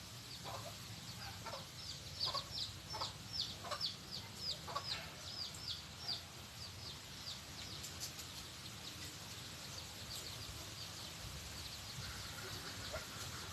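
A bird giving a long run of short, high chirps, each sliding down in pitch, about two a second; they are strongest in the first half and turn fainter later.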